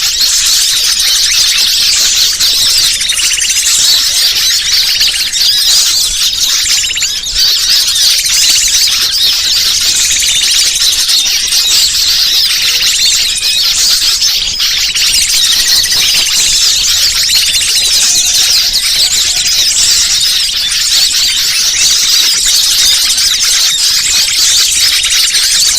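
Bird-luring call recording: a dense, continuous, high-pitched chattering of many small birds, played in an unbroken loop to draw wild birds in.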